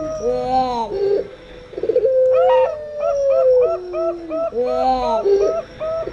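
Zebra dove (perkutut) and puter pelung dove cooing together. A long drawn-out coo steps down in pitch, overlapped by quick runs of short rising-and-falling coo notes, and the pattern repeats about every three seconds.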